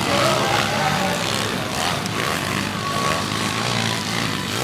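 Pit bike engines running with a steady droning buzz.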